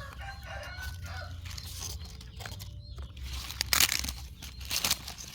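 A drawn-out pitched call lasting about a second and a half at the start, then irregular crackling and rustling noises from about three and a half seconds in.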